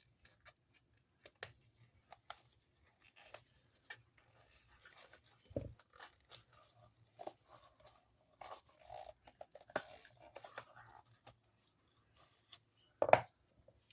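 Silicone mold being peeled and flexed off a cured resin casting: scattered small peeling, crackling and clicking sounds. A louder knock comes about five and a half seconds in and a sharper one near the end.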